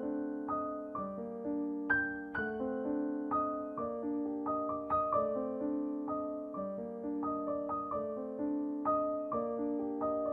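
Slow, gentle solo piano music, notes struck about twice a second and left to ring.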